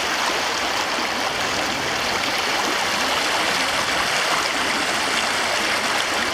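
Brook water rushing steadily under a footbridge, an even hiss of flowing water without a break.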